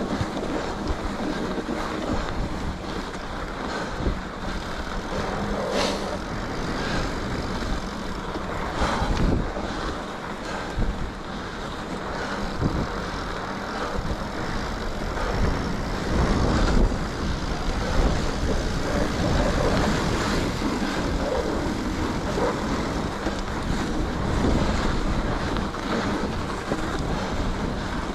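Mountain bike riding a groomed packed-snow trail: wind rushing over the microphone and tyres running on the snow, with a few short knocks and rattles from the bike over bumps.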